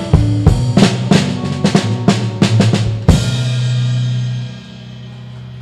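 A live blues band closing a song: a run of drum-kit hits over bass and guitar, then a final accented hit about three seconds in. The last chord rings and drops away a second and a half later.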